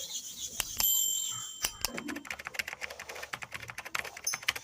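Metal clipper blade being worked against a sharpening stone: sharp clicks, a brief metallic ring about a second in, then quick repeated scraping strokes.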